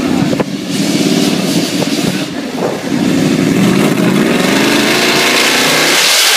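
Ford Mustang drag car's V8 running loud and being revved, its pitch climbing about four seconds in. A loud hissing rush sets in just before the end.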